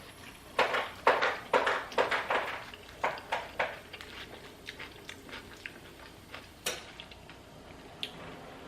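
Close-miked chewing of a mouthful of food: a run of loud, wet chews about two to three a second for the first few seconds, thinning to softer, sparser mouth clicks and smacks.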